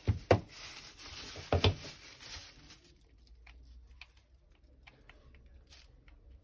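Electric shaver and its charging adapter being handled and plugged in: a few sharp knocks within the first two seconds, then faint scattered ticks. No motor sound follows, since the shaver is clogged and will not run.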